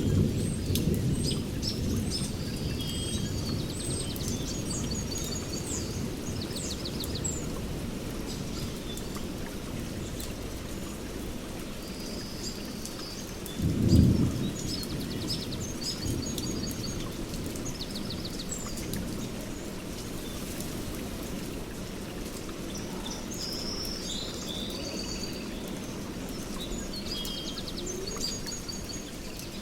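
Songbirds chirping and trilling in short repeated phrases over steady rain and a low rumble of thunder, with a louder roll of thunder about 14 seconds in.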